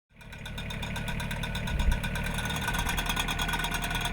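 Compact tractor engine running steadily with a drum aerator mounted behind it, fading in at the start, with a rapid, even ticking running through the sound.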